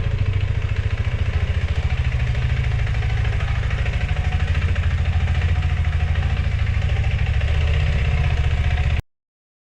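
Motorcycle engine idling with a steady, even pulse, until the sound cuts off abruptly near the end.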